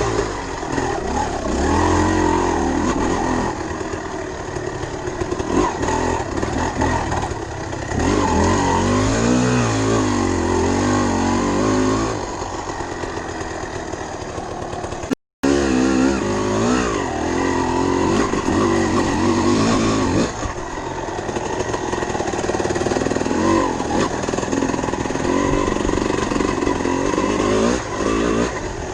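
Dirt bike engine running under changing throttle, its pitch rising and falling again and again as it accelerates and eases off. The sound cuts out completely for a moment about halfway through.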